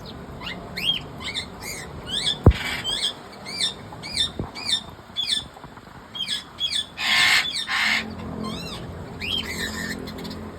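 Opaline lovebird chirping over and over in short, quick, rising-and-falling chirps. It breaks into a harsh squawk about two and a half seconds in, and into a longer screech around seven seconds.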